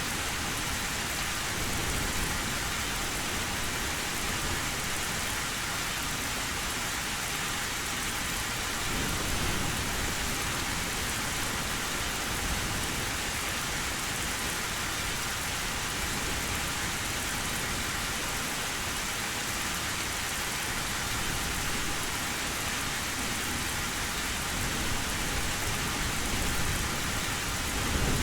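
Heavy rain falling steadily on an old tin roof, with a low rumble of thunder swelling about nine seconds in and again near the end.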